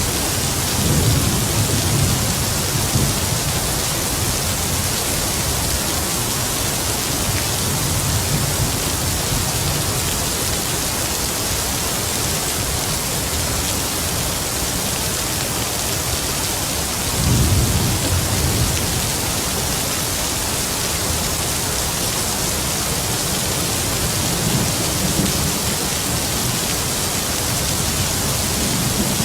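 Heavy rain falling in a steady hiss, with distant thunder rumbling low several times; the strongest roll comes a little past the middle.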